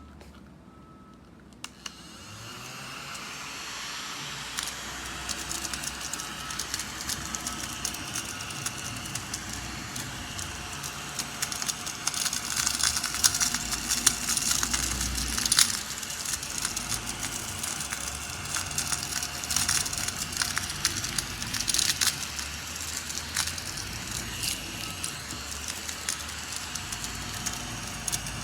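Small cordless desktop vacuum cleaner switched on about two seconds in and running with a steady faint whine, with continual crackling and rattling over it.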